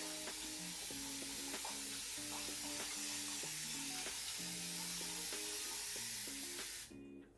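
Steady hiss of a water spray bottle misting hair, cutting off abruptly near the end, over background music.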